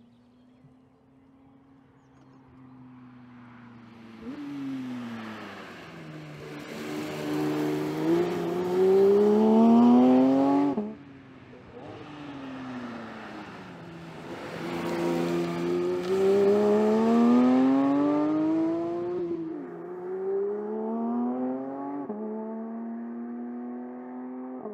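Porsche 992 GT3 Touring's naturally aspirated 4.0-litre flat-six accelerating hard. Its pitch climbs through each gear and drops at each upshift, about four times. It starts faint and grows loud, with a sudden fall in level about halfway through.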